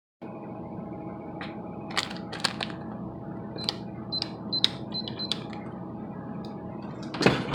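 Several sharp clicks and a run of about five short, high electronic beeps from a keypad as a code is keyed in, over a steady background hum. A louder burst of noise comes near the end.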